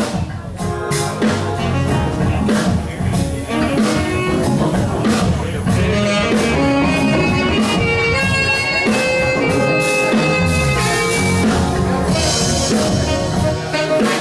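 A live blues-rock band playing an instrumental passage: drum kit, bass guitar and electric guitar with keyboards and saxophones, with a held melody note for a few seconds in the middle.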